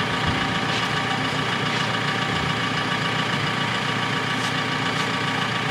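Engine of a lifting machine idling steadily, with a few faint clicks.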